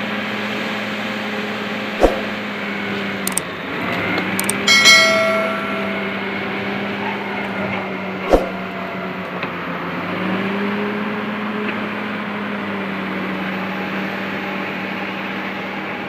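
Komatsu D68ESS crawler bulldozer's diesel engine running steadily while dragging logs, its pitch dipping a little twice. There are two sharp knocks about two and eight seconds in, and a loud metallic clang with a brief ringing about five seconds in.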